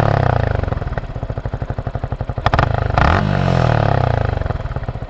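Yamaha R15 v3's single-cylinder engine revved twice through its stock exhaust, whose dB killer has been cut back. Each time the revs fall back to a pulsing idle, with crackling backfire pops as the throttle closes.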